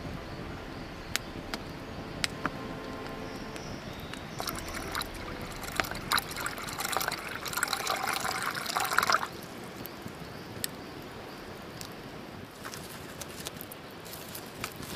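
Liquid being poured, louder for about four seconds in the middle, with sharp clicks scattered throughout.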